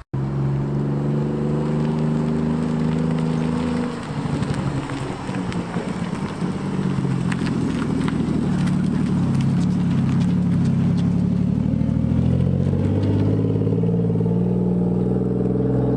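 Car engine running close by with a steady note. The note dips and wavers about four seconds in, then settles again.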